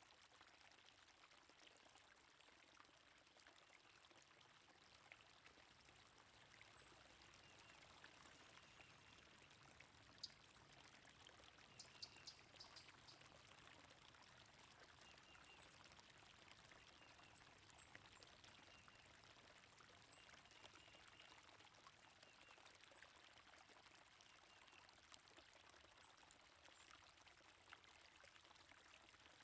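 Faint, steady flowing stream water, with small high bird chirps scattered through and a brief patter of clicks partway through.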